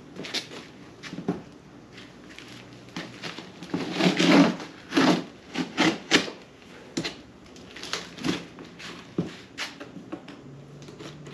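A cardboard box being cut and torn open, with the cardboard and packing material scraping and rustling in irregular strokes, loudest about four to six seconds in.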